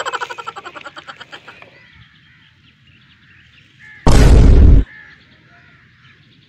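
Sound effects laid over toy play. A rapid pulsing, pitched call starts abruptly and fades out over about a second and a half. About four seconds in comes a very loud, harsh cry lasting under a second.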